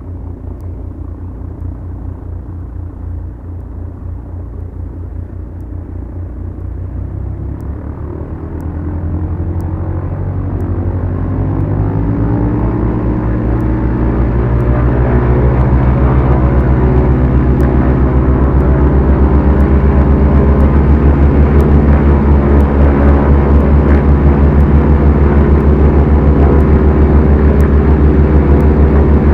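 Twin four-cylinder piston engines of a Beechcraft Duchess running, brought up to high power: they grow much louder over about eight seconds, starting around eight seconds in, then hold a steady loud drone.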